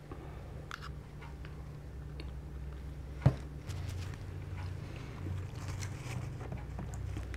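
Soft mouth and chewing sounds from eating mashed potatoes, over a steady low hum. About three seconds in there is one sharp click as the paper cup with its spoon is set down on the table.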